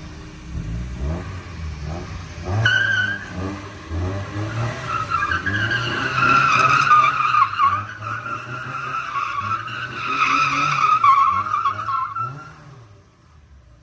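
2001 Mazda Miata revving hard while its tyres squeal as it is slid through tight turns. A short tyre chirp comes about three seconds in, then a long continuous squeal from about five seconds in. Both die away near the end.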